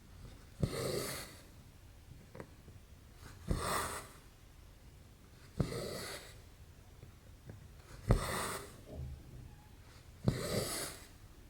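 Embroidery thread being drawn through 11-count cross-stitch fabric, about every two and a half seconds. Each pull starts with a sharp tick and runs on as a short rasping swish of about half a second, five times in all.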